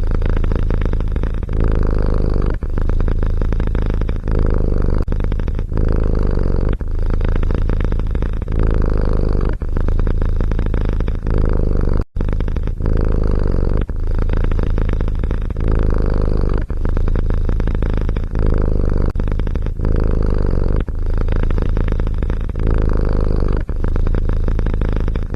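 A domestic cat purring loudly and close up, the purr swelling and easing in a steady rhythm with its breaths in and out, with a brief break about twelve seconds in.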